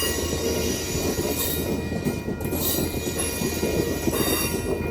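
Amtrak passenger train coaches rolling past at speed: a steady rumble and clatter of steel wheels on rail, with thin high wheel squeal over it.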